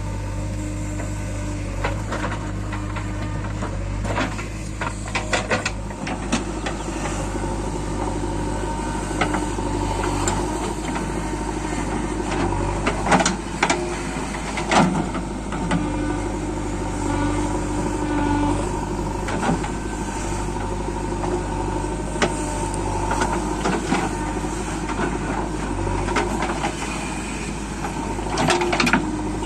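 Diesel engines of a backhoe loader and a tractor running steadily with a low hum, while the loader works. Scattered knocks and clanks of the machinery sound throughout, loudest about four to six seconds in, again around thirteen to fifteen seconds in, and near the end.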